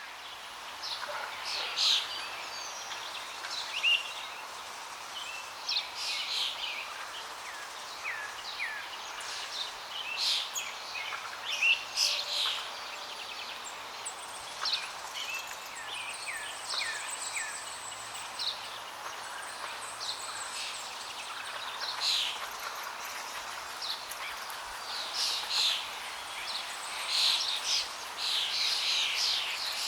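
Several small birds chirping and calling, with many short, high chirps and quick falling notes overlapping, over a faint steady hiss.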